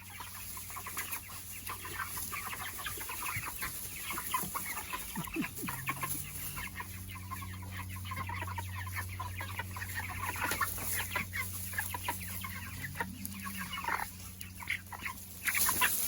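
A flock of six-week-old meat chickens clucking and calling, with many short calls overlapping, over a steady low hum.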